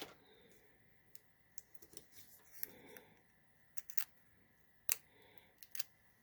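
Faint paper-crafting handling sounds: scattered small clicks and taps, with a soft rustle of cardstock about three seconds in, as a card sentiment is readied to be popped up on foam adhesive.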